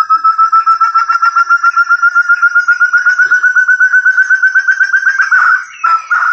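Forest partridge (puyuh hutan) lure call: a long run of fast, clear whistled notes, about eight a second, creeping up in pitch, then a brief rougher burst of calls near the end.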